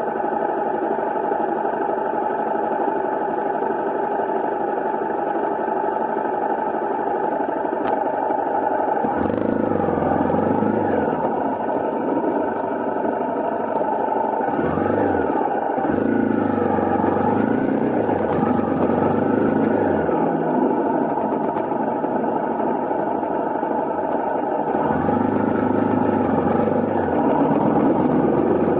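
Honda CRF250L's single-cylinder four-stroke engine running as the bike is ridden, its engine note changing as the throttle and load change about nine seconds in, again around fifteen and twenty-five seconds in.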